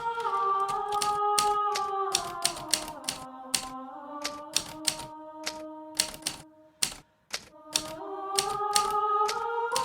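Hermes Baby portable typewriter typing at an uneven pace, with sharp key strikes about two to three a second and a short lull about two-thirds of the way through.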